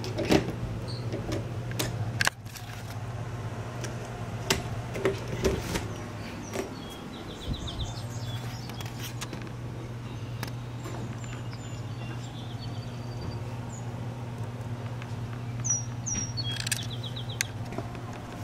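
Birds chirping: several short, fast high trills and a few slurred calls, over a steady low hum. A few sharp knocks and clicks come in the first couple of seconds.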